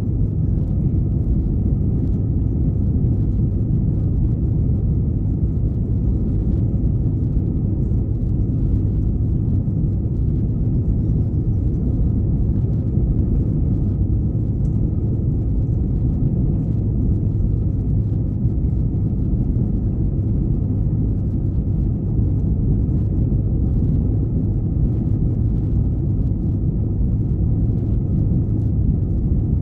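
Steady low rumble of jet engine and airflow noise inside an Airbus A321-211's passenger cabin in flight, with a faint steady whine above it.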